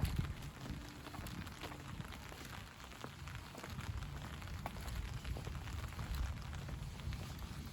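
Rain falling, with many scattered drops ticking close by over a low rumble.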